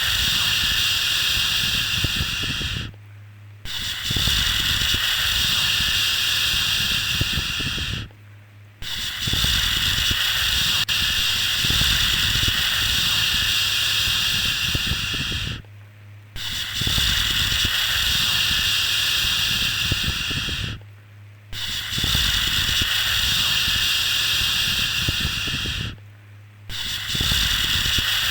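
Shushing 'shhh' sound for lulling a baby: long steady hisses of about four to seven seconds each, with short breaks of under a second between them, six in a row.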